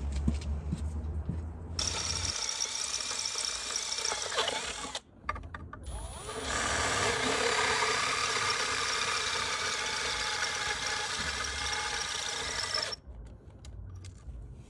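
Electric drill running in two spells, about three seconds, then a short pause, then about six seconds, boring holes in a fabricated mount.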